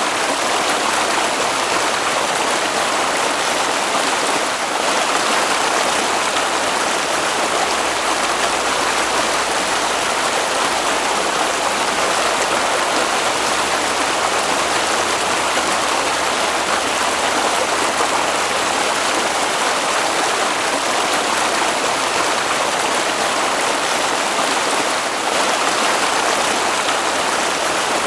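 Water flowing in a stream, a steady rushing noise that does not change.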